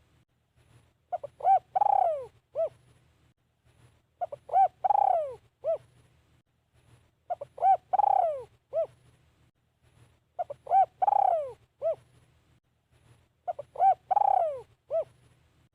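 Spotted dove cooing: five phrases about three seconds apart, each two short coos, a long falling coo and a short closing coo.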